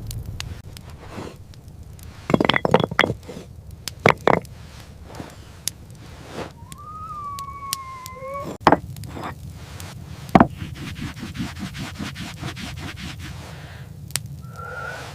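Irregular knocks and thuds: a quick cluster about two seconds in and single sharp hits later. A drawn-out, wavering high call sounds in the middle, and another begins near the end.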